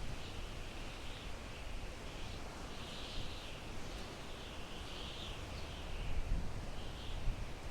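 Wind blowing through pine trees: a steady rushing hiss with a low rumble that rises in small gusts, and a higher hiss that swells and fades about once a second.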